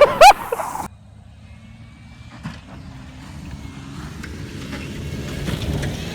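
A brief loud burst with swooping pitch cuts off sharply under a second in. Then an off-road race truck engine runs at a distance, growing gradually louder.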